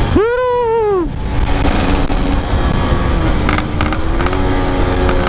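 Yamaha RX-King two-stroke single-cylinder engine on the move, revving up and falling back once near the start, then running steadily with a slight rise in pitch, with wind on the microphone. The engine is knocking badly, in the rider's own words.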